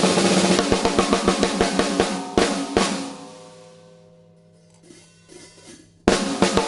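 Ludwig Exotic Bird's Eye Maple 14x6.5 snare drum, tuned medium-low, played with a drum kit: a fast run of snare strokes over bass drum and cymbal wash, two accents, then the kit rings out. Soft scattered strokes follow, and loud drumming starts again about six seconds in.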